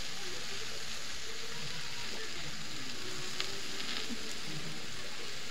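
Jujubes (boroi) frying in oil in a wok: a steady sizzle. A single faint click comes about three and a half seconds in.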